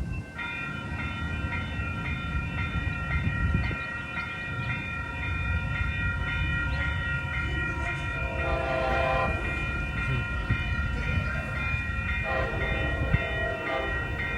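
A railroad grade-crossing bell rings steadily over the low rumble of a train starting to move, with the train picking up speed. Two brief, stronger sounds come through about halfway in and again near the end.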